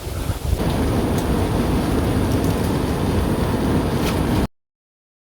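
Loud, steady rushing noise that swells about half a second in and cuts off abruptly near the end.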